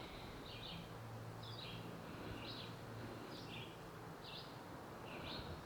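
A songbird repeats a short, high chirp about once a second, over a low droning buzz, like a flying insect, that fades out about halfway through.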